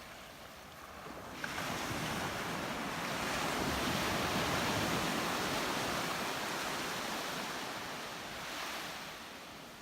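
Ocean surf: a wave breaks and washes in, its rushing noise swelling about a second in, peaking midway and fading near the end.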